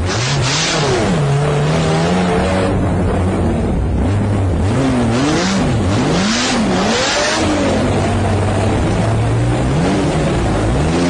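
A car engine revving, its pitch climbing and dropping again and again, with several surges of hissing tyre and road noise.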